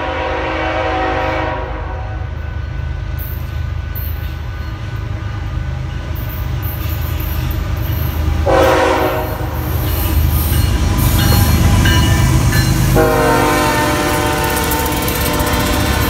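BNSF diesel freight locomotives approaching and passing with their multi-chime air horn sounding three times: a blast that ends about a second and a half in, a short blast about halfway, and a long blast over the last few seconds. A steady low engine rumble runs under the horn, and wheel clatter builds as the locomotives go by near the end.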